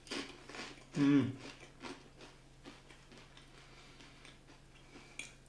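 A crisp vegetable waffle being bitten and chewed: faint crunches and small ticks, with a short hummed "mm" about a second in.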